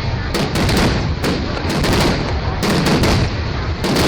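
Aerial fireworks bursting in a display: many sharp bangs in quick, irregular succession over a continuous low rumble of further bursts.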